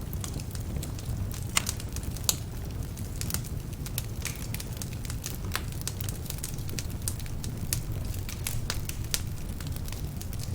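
Wood fire burning in a fireplace: a steady low rumble of flames with irregular sharp crackles and pops from the logs, two louder pops about one and a half and two seconds in. The crackling comes from logs that are a bit damp.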